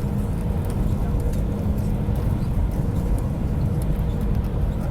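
Airliner cabin noise: a steady low rumble of the engines and airframe with a constant droning hum.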